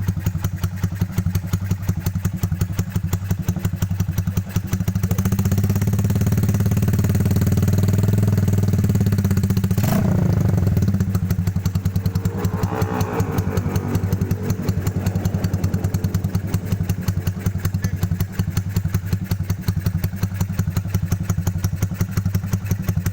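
Honda Tiger's single-cylinder four-stroke engine running through an aftermarket WRX exhaust, idling with a steady, rapid exhaust pulse. About five seconds in it is revved up and held, then the throttle is let go near the ten-second mark and it falls back to idle.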